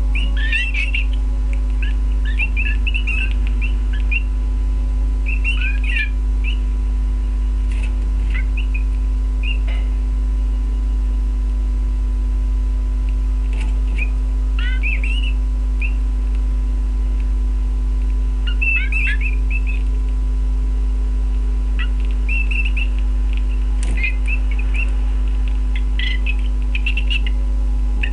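Canaries chirping in short, scattered twittering bursts, a cluster every second or few, over a steady low hum.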